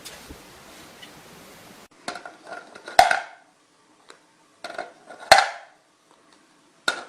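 A steady hiss, then three rounds of clattering about every two and a half seconds, like dishes or utensils being knocked together. Each round is a few light knocks ending in a sharp clank that rings briefly.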